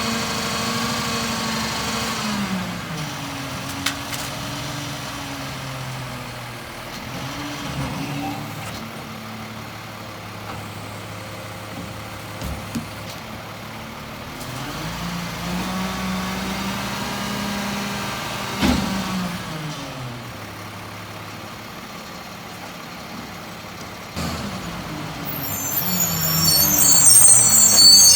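Peterbilt 520 garbage truck engine speeding up and settling back twice, with a few sharp knocks, and a high brake squeal near the end.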